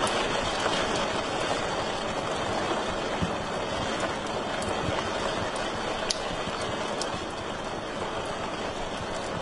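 Wood fire burning in a fireplace: a steady hiss of flames with a few sharp crackling pops scattered through it.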